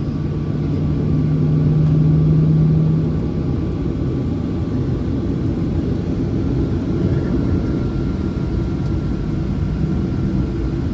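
Steady low cabin rumble inside a Boeing 737 at idle on the ground, from its engines and air system. A low hum swells and then fades out about three seconds in, and a faint high steady tone comes in about halfway through.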